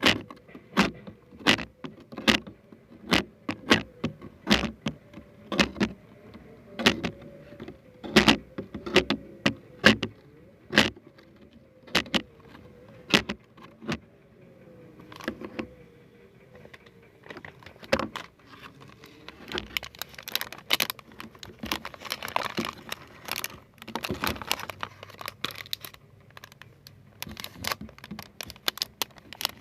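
Objects handled close to the microphone for ASMR: sharp taps or clicks about one to two a second for the first half, then, after a short lull, a denser crackling rustle.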